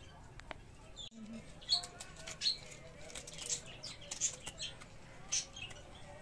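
Small birds chirping: many short, high chirps scattered throughout, with a brief gap about a second in.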